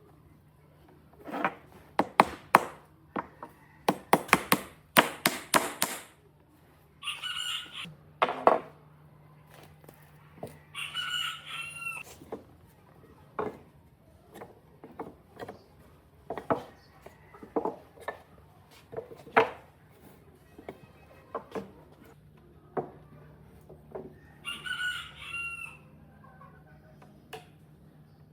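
Sharp knocks of a hammer on wood, a quick run of blows in the first few seconds and then single spaced strikes, while a rooster crows three times, each crow about a second long.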